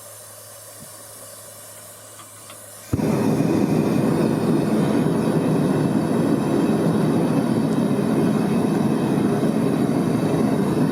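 Gas-fired melting furnace burner running with a steady rushing noise, which starts abruptly about three seconds in after a faint hiss.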